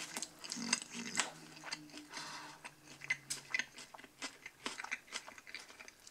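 Close chewing of a mouthful of submarine sandwich, salami with lettuce, pickles and other fresh vegetables in a soft bread roll. Irregular soft crunches and wet mouth clicks follow one another.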